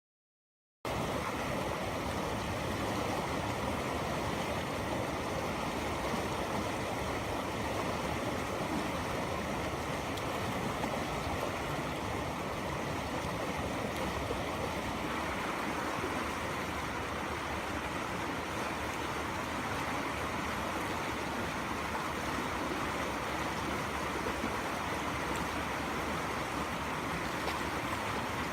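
A fast-flowing river swollen beyond its banks, its water rushing in a steady, even roar that starts abruptly about a second in.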